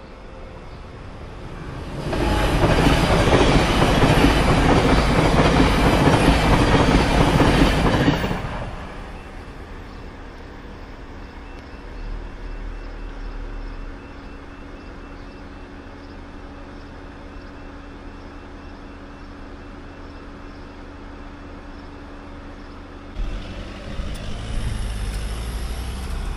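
An electric train passes over a level crossing for about six seconds, a loud rush of wheels on rail that fades out quickly. Steady faint tones follow while the barriers stay down. Near the end, a louder stretch of vehicle noise comes as a car drives over the crossing.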